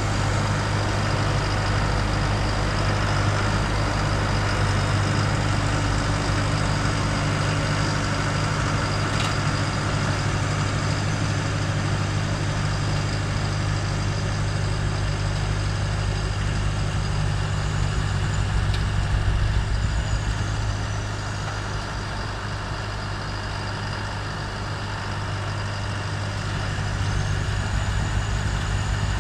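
Tractor diesel engine running steadily, growing somewhat quieter about two-thirds of the way through and louder again near the end.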